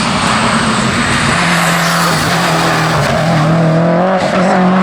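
A hillclimb race car running flat out up the course, its loud engine note holding steady with brief dips a few times.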